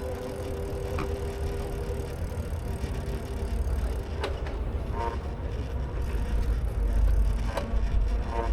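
Low wind and road rumble from a ride on a bicycle, growing louder toward the end, with a few sharp clicks and a steady tone in about the first two seconds.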